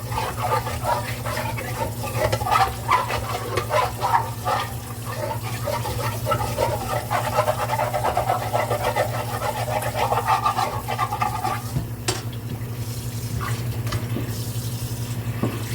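A pot being scrubbed by hand with a scrubber at the sink: rapid scraping strokes that work at stuck-on residue, stopping about three-quarters of the way through. A steady low hum runs underneath.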